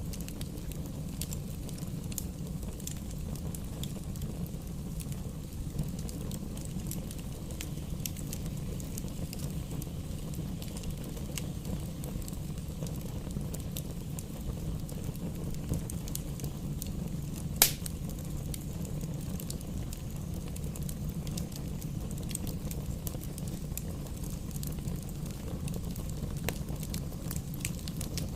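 Bonfire burning: a steady low rumble of flames with scattered small crackles, and one sharp, loud pop a little past the middle.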